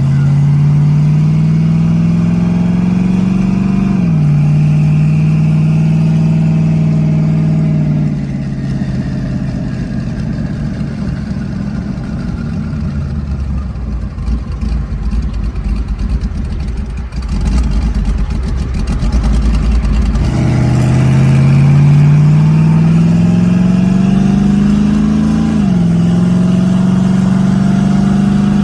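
Twin-turbo LS V8 accelerating hard through the gears. Its note climbs, drops at an upshift about four seconds in and climbs again, then settles into a lower, rougher rumble with road noise while off the throttle. It pulls again and shifts once more near the end.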